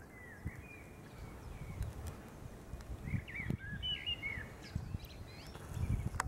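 Songbirds chirping in quick rising and falling notes, one short run about half a second in and a busier run around three to four seconds in, over an uneven low rumble.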